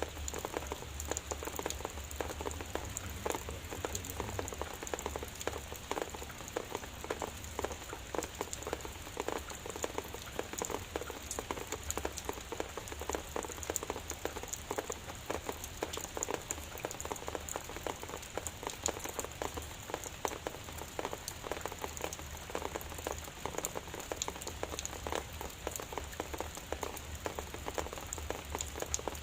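Light rain (drizzle) falling steadily, a dense patter of many small drops hitting a surface, with a steady high-pitched hiss underneath.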